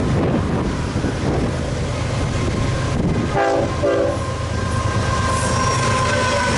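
BNSF diesel locomotives rumbling as they approach and pass with a loaded coal train. About halfway through, the lead locomotive's Nathan K5HL horn sounds two short blasts. A thin, steady high whine, typical of wheel squeal, joins from about five seconds in.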